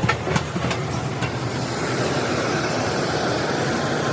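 Steady rushing noise, with a couple of sharp clicks in the first second or so.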